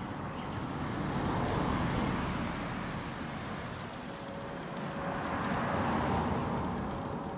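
Road vehicles passing, the noise swelling and fading twice.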